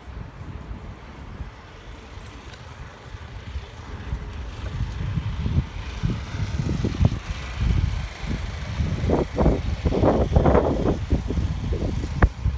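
Wind rushing over the microphone and rumble from a moving bicycle, getting louder about halfway through, with gusty bursts near the end.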